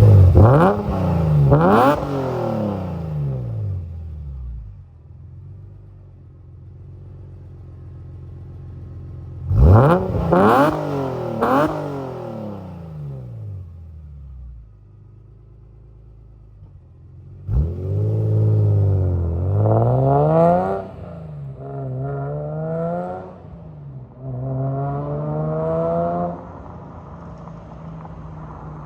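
BMW E46 M3's S54 inline-six running through a Supersprint Race exhaust with a header and non-resonated X-pipe, revved in quick blips that fall back to idle, twice. About two-thirds of the way in it is revved again, climbing in pitch in several rising pulls before settling back to a steady idle near the end.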